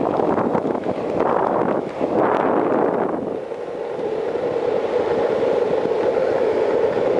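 Longboard wheels rolling fast on asphalt with wind rushing over the microphone. The noise surges unevenly at first, then settles into a steady hum about halfway through.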